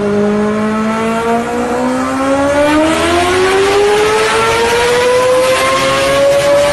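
High-speed train sound effect: an electric motor whine that rises slowly and smoothly in pitch as the train accelerates. A rushing noise builds in from about three seconds in.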